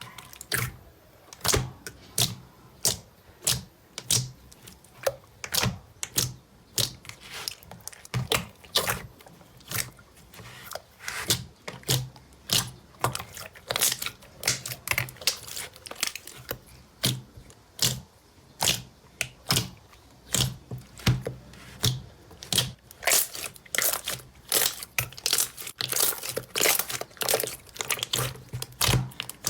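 Slime being handled by hand, giving a continuous, irregular run of sharp pops and crackles at roughly two a second.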